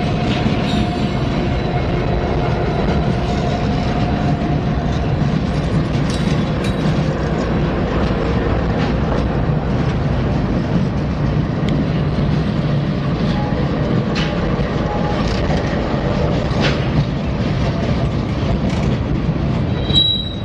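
Norfolk Southern freight train's diesel locomotives passing close by under power: a steady, loud, low rumble with scattered clicks of wheels over the rail joints. Near the end the first freight cars come by, with a brief high squeal.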